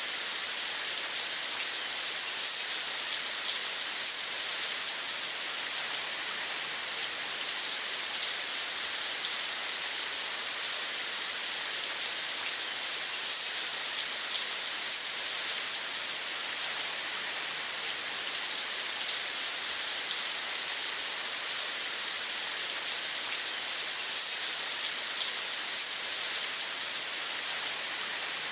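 Steady rain, an even hiss with a fine patter of drops that does not change.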